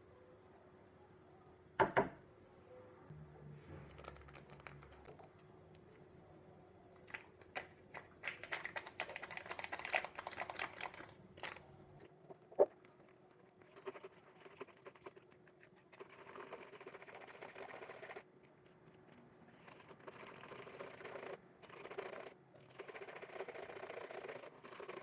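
Kitchen handling sounds while preparing food: a sharp knock about two seconds in, then stretches of quick, light clattering and scraping, densest between about eight and eleven seconds in.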